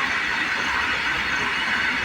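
A train running past on the track: a steady, dense rush of wheel-and-rail noise.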